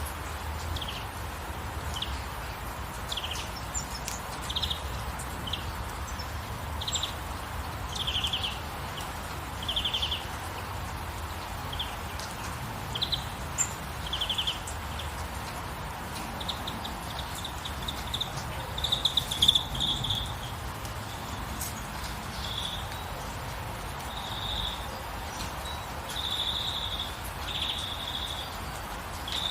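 Songbirds calling over a steady hiss of rain: short high chirps about once a second at first, then longer trilled notes from about halfway through, with a low rumble underneath.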